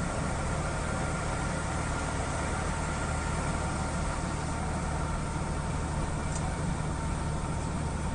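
A vehicle's engine running steadily, with road noise.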